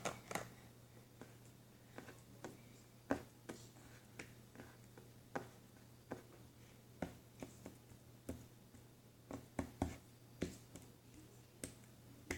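Faint, irregular sticky clicks and pops of slime being squeezed and pulled apart by hand, over a low steady hum.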